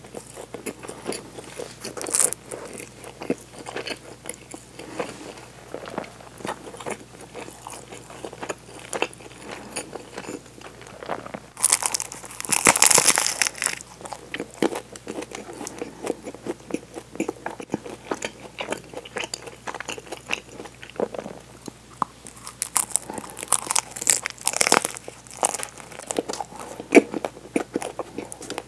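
Close, wet chewing and biting of soft bread, with small crackles throughout. Twice, at about twelve seconds in and again about twenty-two to twenty-five seconds in, there is louder dense crackling as the chocolate-coated chocolate-ring bread is handled and broken.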